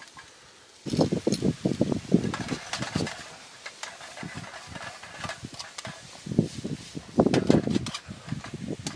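Cooking utensils stirring and scraping food in a pan, with clattering knocks and clicks. The sound starts about a second in and comes back in a louder spell near the end.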